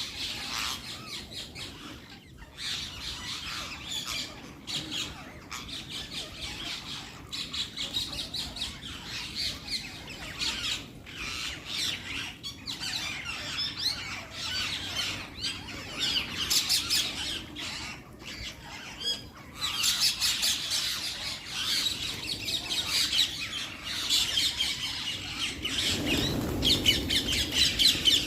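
Parrots squawking and chattering in rapid, overlapping calls that carry on throughout, with a low rumble near the end.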